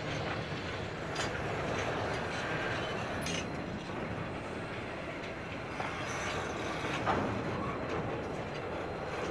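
Two Pacific National 81 class diesel-electric locomotives running as they haul a slow-moving train of empty grain hopper wagons: a steady rumble from the engines and rolling wagons, with a few sharp metallic clicks from the wheels and couplings.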